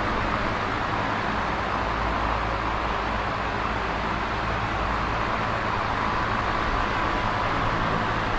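Electric fan running steadily: an even whooshing of moving air with a low motor hum beneath it.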